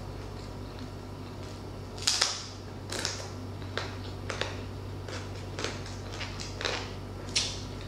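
Close-miked chewing of crispy deep-fried pork knuckle skin: a run of sharp crunches, loudest about two seconds in, again around three seconds and just before the end, over a steady low hum.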